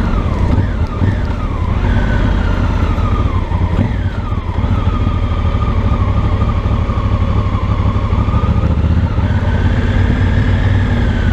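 2018 Honda Africa Twin Adventure Sports' parallel-twin engine and exhaust at low road speed, running with a steady low rumble. Its pitch falls a few times in the first half as the revs drop and rises again near the end.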